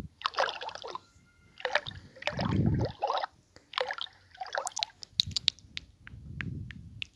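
Close-up ASMR liquid sloshing and gurgling in irregular bursts, with a run of quick, sharp taps in the last two seconds.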